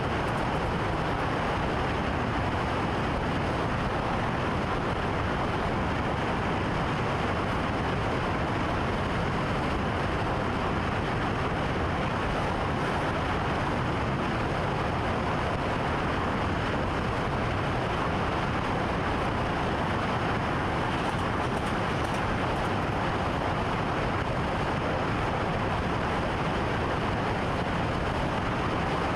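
Steady running noise of a train heard from inside the driver's cab: an even rumble and hiss with no clear rhythm or change in level.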